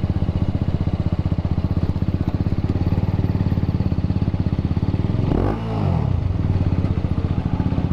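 TVS Apache RR 310's single-cylinder engine running at low speed with an even pulsing beat. Its note briefly bends and dips about five and a half seconds in.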